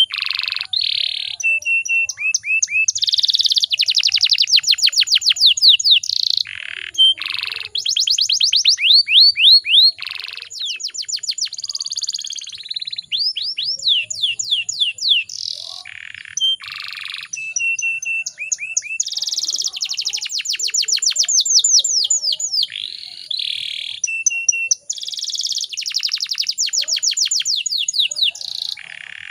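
Domestic canary singing without pause: a string of fast trills and rolls, each run of rapidly repeated notes lasting a second or two before switching to another phrase, with a few short held whistles in between.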